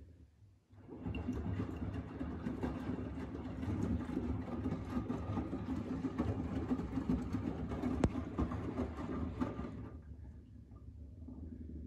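Front-loading washing machine drum turning, a steady rumble that starts about a second in, lasts about nine seconds, then drops to a quieter low hum. A single sharp click comes near the end of the rumble.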